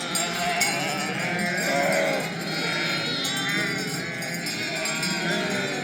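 A flock of sheep bleating, many calls overlapping.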